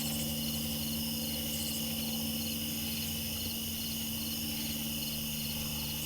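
Crickets chirping steadily in even pulses, about two or three a second, over a steady low hum.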